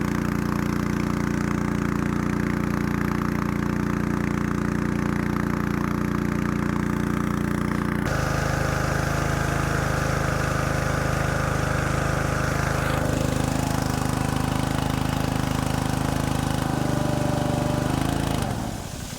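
Honda GX200 single-cylinder engine on a 3-inch water pump, running steadily under pumping load. Its note shifts abruptly a little past 8 seconds and again around 13 seconds. Near the end it shuts off, the pitch falling as it spins down. The pump is pumping, but the carburetor still needs more work.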